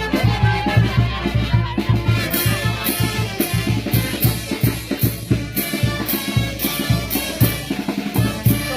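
Latin dance band music with a steady drum beat and cymbal strokes a few times a second.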